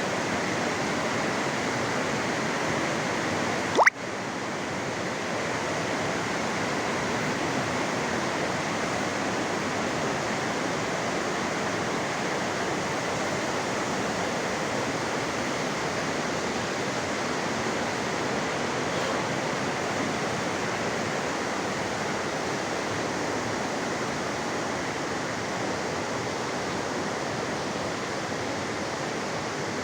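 Steady rushing of fast-flowing water in a river canyon, with one sharp click about four seconds in.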